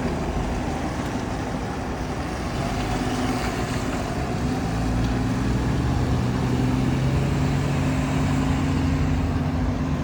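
Fire engine's engine running steadily, growing louder and a little higher in pitch about three seconds in as it pulls away.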